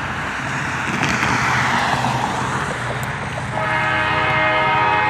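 Locomotive horn of a De Queen and Eastern freight train sounding about three and a half seconds in, a held chord of several notes, over a steady rumble.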